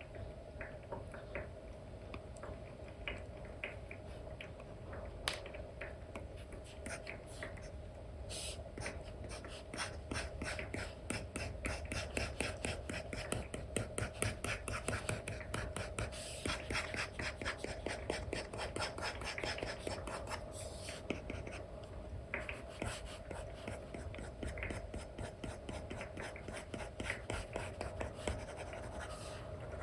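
Stylus nib scratching and tapping on a paper-like iPad screen film: short pen strokes that quicken in the middle into about ten seconds of rapid back-and-forth strokes, then slow again, over a faint steady hum.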